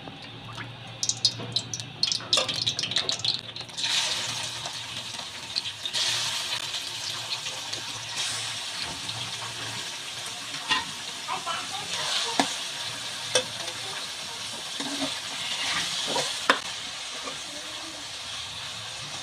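Diced chicken frying in hot oil in an aluminium pot: a steady sizzle that starts about four seconds in, with a steel ladle clinking and scraping against the pot as it is stirred. A run of sharp metal clinks comes before the sizzle starts.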